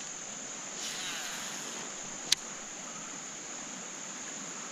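Steady insect chorus with a constant high-pitched buzz, typical of evening crickets. About a second in there is a brief rushing sound, and a single sharp click a little past two seconds.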